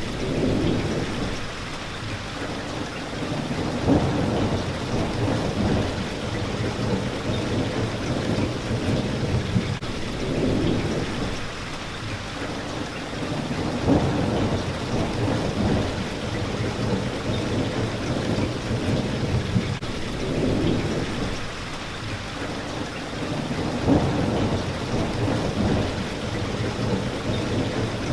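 Steady heavy rain pattering against a window, with low rolls of thunder swelling up every few seconds.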